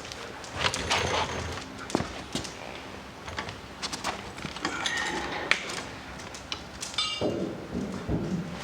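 Scattered clinks, taps and knocks of metal parts and hardware being handled while a steering rack is fitted to a race-car chassis, with a short quick run of ticks about seven seconds in.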